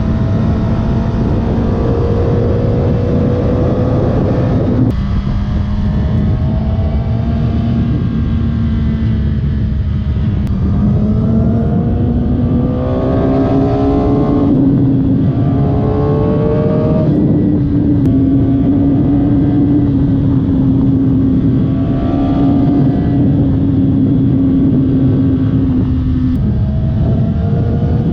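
Suzuki GSX-R1000 K7's inline-four engine running through its stock factory exhaust under way, the pitch repeatedly rising as it pulls and then dropping back several times.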